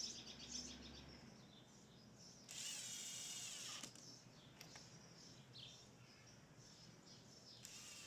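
Faint birds chirping, with a denser buzzing sound for about a second and a half from two and a half seconds in, starting again near the end.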